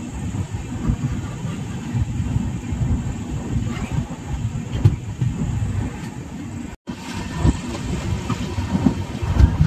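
Passenger express train running along the line, a steady low rumble with occasional clicks from the wheels, heard from on board. The sound cuts out for a split second about seven seconds in.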